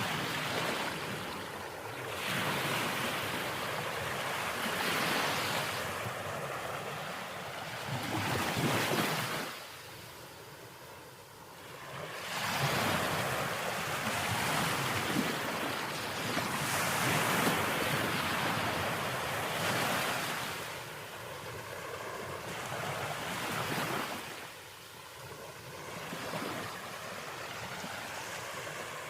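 Sea waves breaking and washing in, the noise swelling and falling back in slow surges several seconds apart.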